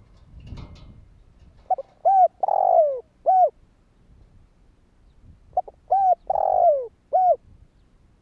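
Spotted dove cooing. It gives two identical phrases about four seconds apart, each made of a couple of short coos, a longer coo falling in pitch, and a final short coo.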